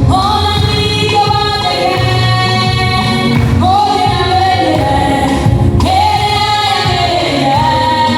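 A gospel song: held sung notes with instrumental backing and a steady bass line underneath, a new phrase beginning about every two to three seconds.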